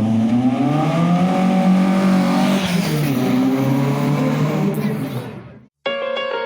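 Car engine revving as the car accelerates, its pitch rising over the first two seconds and then easing before it fades out about five and a half seconds in. Piano music starts just after.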